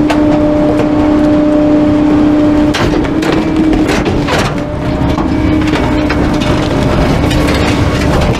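Garbage truck running with a steady hydraulic whine while bulky items are crushed, giving sharp cracks and snaps of breaking wood, the loudest about three and four seconds in.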